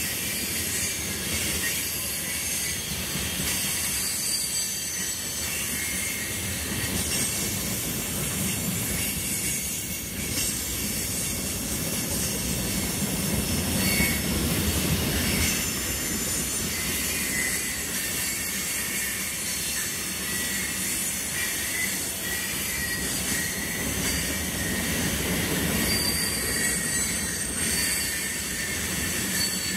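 Freight train of tank cars rolling past at close range: a steady rumble of wheels on rail, with thin high wheel squeals coming and going over it.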